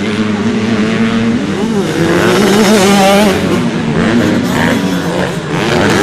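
Motorcycle engines running and revving, with the pitch wavering up and down about halfway through.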